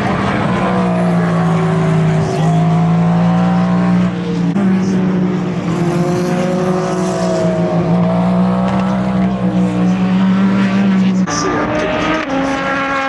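Endurance race car engines running at speed on the circuit, several engine notes overlapping, with pitches that rise and fall gently. About eleven seconds in, the strongest low engine note cuts out and a higher-pitched engine takes over.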